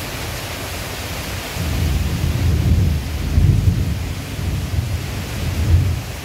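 Heavy rain falling in a steady hiss. A low, uneven rumble rises about a second and a half in and dies away near the end.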